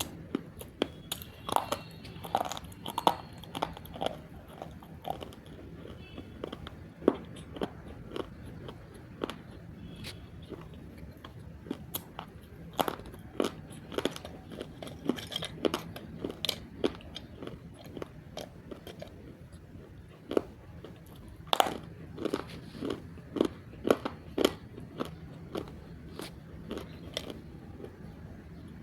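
A person biting and chewing chunks of roasted multani mitti (fuller's earth clay): a run of sharp, irregular crunches, with a short lull about two-thirds of the way through.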